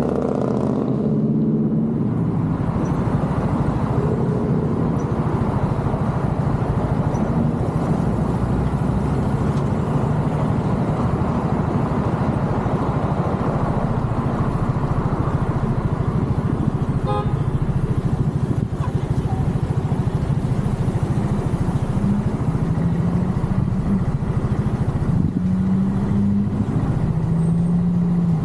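Genuine Buddy 170i scooter's single-cylinder engine running during a ride, under a steady rush of road noise. The engine hum grows clearer near the end.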